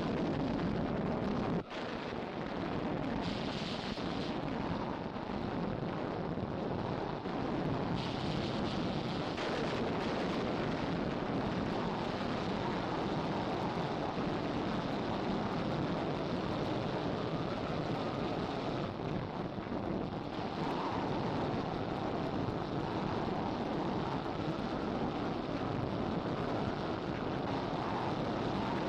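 Storm sound effect: a steady rumbling rush of wind and thunder, with no rain.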